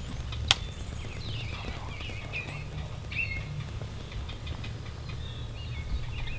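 Small birds chirping in short notes, with light scattered ticks and a single sharp click about half a second in, over a steady low rumble.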